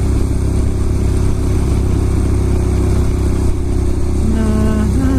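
Ducati Monster S2R 1000's air-cooled L-twin engine running steadily at low speed in traffic, a continuous low drone that rises in pitch near the end as it revs up.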